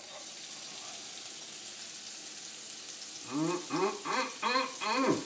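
Chopped shallots sizzling steadily in a hot frying pan on a gas stove, starting as they hit the oil. About three seconds in, a man's voice sounds briefly over the sizzle.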